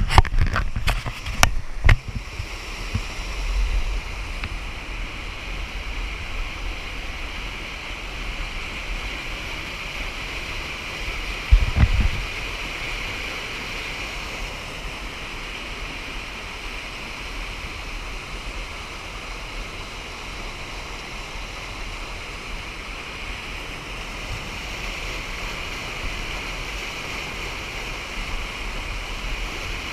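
Creek water running steadily in a continuous rushing wash. A few sharp knocks sound in the first two seconds, and a brief low bump comes about twelve seconds in.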